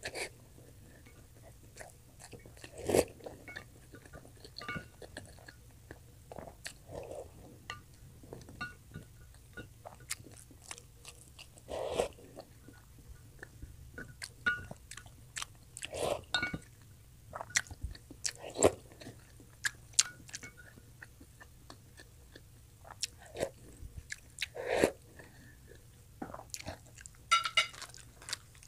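Close-miked chewing of boiled egg and noodles: many soft, irregular mouth clicks and wet smacks, with a few louder single mouth sounds every few seconds.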